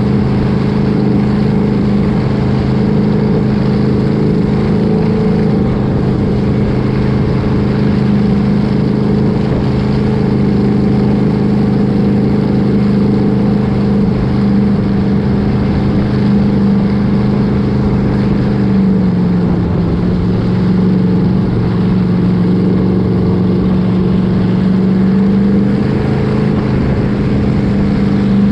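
An engine running steadily at constant speed with a continuous drone; its pitch drops slightly about two-thirds of the way through and climbs back up near the end.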